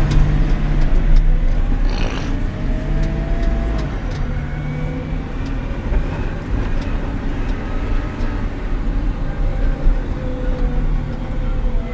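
Haul truck's diesel engine running as the truck drives along a dirt road, heard from inside the cab as a steady low rumble with faint whines, and one knock about two seconds in.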